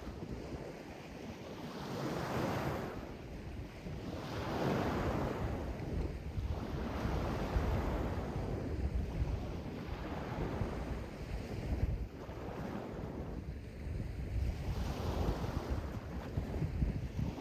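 Sea waves washing in and drawing back, the noise swelling and fading about every two seconds, with wind rumbling on the microphone.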